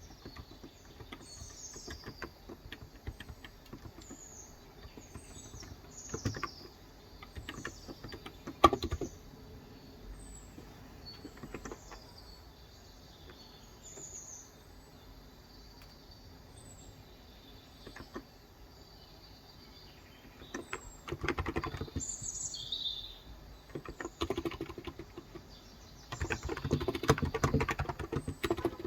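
Small birds chirping over and over in short high notes. Near the end come bursts of fast typing on a COX Endeavor electrostatic capacitive keyboard with 35 g switches, after a few single key presses earlier on.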